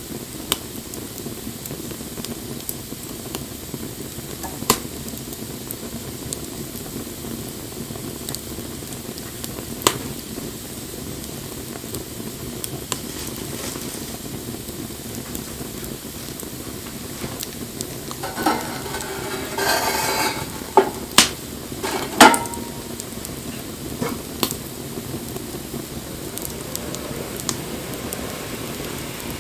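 Wood fire burning with a steady crackle and sharp pops every few seconds. About two-thirds of the way through comes a short run of louder rustling and several knocks.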